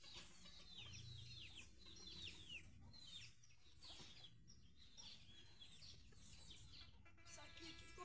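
Faint bird calls: many short, high, falling chirps repeated throughout, with a brief higher held call near the end.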